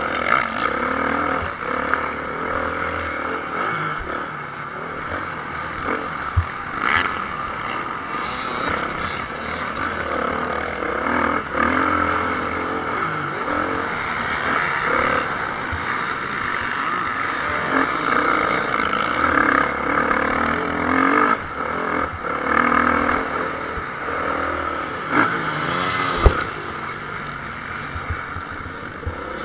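Motocross bikes racing, their engines revving up and down through the gears as riders accelerate and back off. A few sharp knocks sound in between, the loudest near the end.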